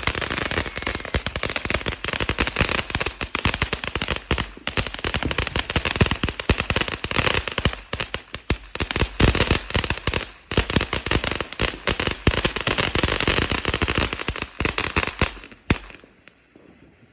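Fireworks going off in a fast, dense run of cracks and pops that stops abruptly about sixteen seconds in.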